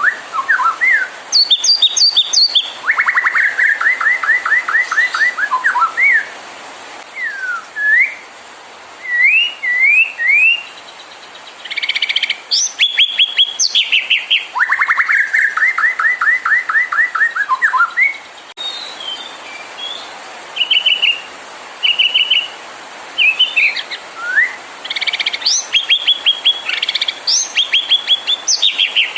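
White-rumped shama (murai batu) singing a loud, varied song: fast runs of repeated notes, whistled rising and falling glides and short high phrases, with brief pauses between them.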